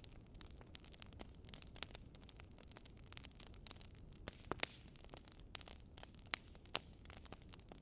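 Wood fire in a fireplace crackling: irregular sharp pops and snaps over a low steady rumble, with a few louder snaps past the middle.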